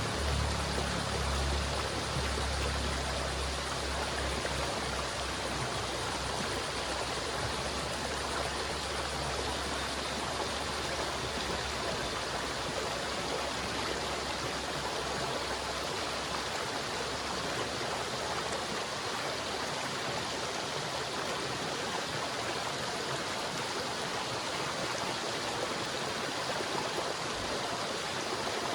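River water flowing steadily, an even rushing with no breaks. A low rumble underneath fades out about halfway through.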